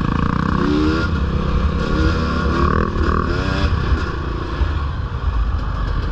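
Dirt bike engine running under way on a trail, its pitch rising and falling in short sweeps as the throttle is opened and closed.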